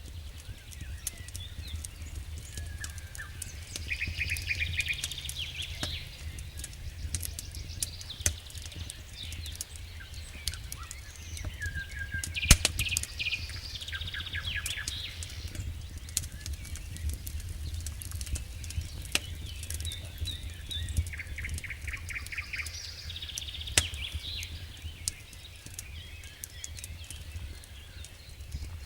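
Wood fire crackling in a fireplace: frequent sharp pops and snaps over a steady low rumble, with one louder pop a little before halfway. High, chirping trills come and go three times alongside the crackle.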